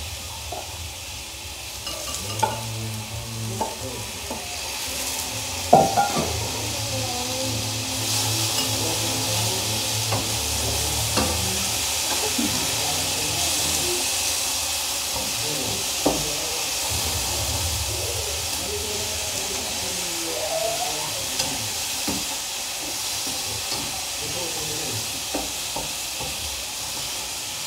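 Boiled beef chunks sizzling as they fry in a pan with sautéed garlic and onion. A slotted spatula stirs them, clicking and scraping against the pan now and then. The sizzle grows louder over the first several seconds.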